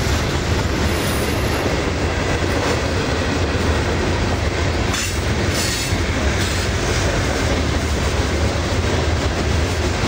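Freight train cars rolling past close by: a steady, loud rumble of wheels on rail, with a few clicks as wheels cross rail joints a little past the middle.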